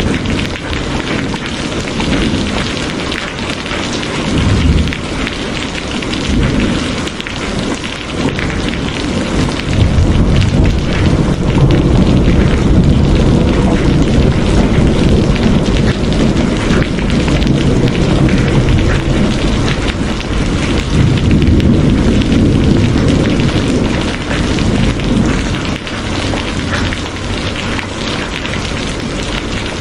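Steady heavy rain hissing, with a low rumble of thunder swelling and easing beneath it, loudest from about ten seconds in.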